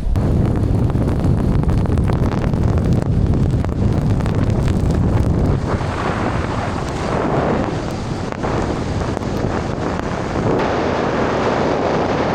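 A car plowing through deep powder snow makes a loud, steady rushing noise as snow sprays against the front and body, with many small knocks and ticks.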